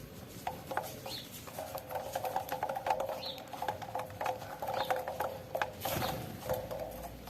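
Saffron finches feeding on cracked corn: many quick, irregular pecking clicks with a few short, high chirps.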